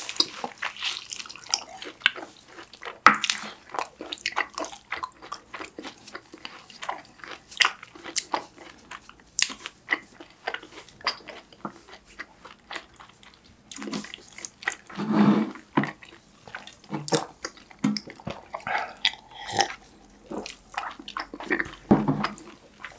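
Two people biting and chewing fried cheese balls close to the microphone: irregular wet mouth clicks and smacks, with a few louder chewing spells.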